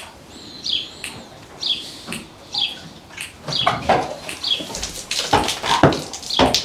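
A bird chirping about once a second, each a short falling chirp. From about halfway in, knocks and clatter grow louder as a Percheron draft horse turns and steps about in its stall.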